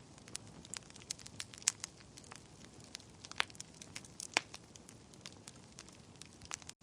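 Wood fire burning in a fireplace, crackling with irregular sharp pops and snaps over a low steady rush of flame. The sound cuts out briefly just before the end.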